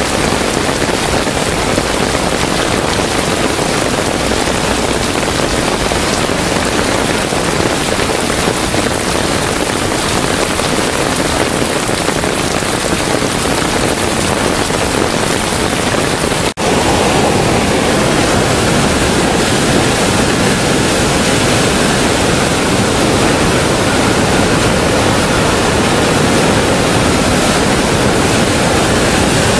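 Heavy downpour and rushing water, a loud steady hiss. Just past halfway it breaks off for an instant and comes back as a fuller rushing sound.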